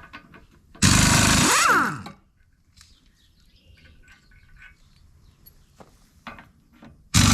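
A power impact wrench runs in two bursts of about a second each, about a second in and again near the end. Each ends with a falling whine as the tool spins down. It is loosening the nuts holding the tractor's weights, with light clicks and knocks of the nuts and metal in between.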